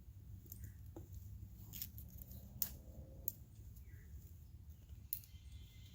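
Fire burning in a Kelly Kettle camp stove's chimney: a low, steady rumble with a handful of sharp crackles and pops from the burning wood.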